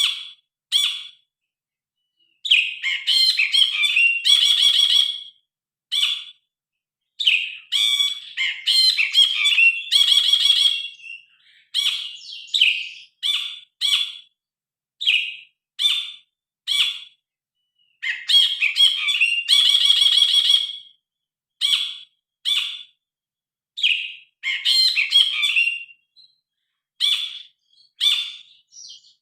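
Brinji kelabu bulbul singing: varied, loud phrases and short sharp calls one after another, separated by brief pauses.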